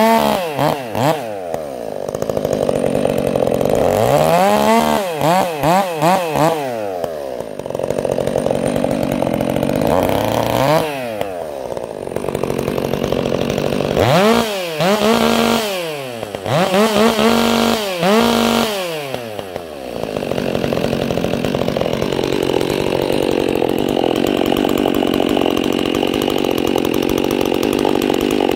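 Stihl MS 400 two-stroke chainsaw fitted with a prototype aftermarket muffler, revved up and down in a series of quick throttle blips, then held at a steady speed for the last several seconds.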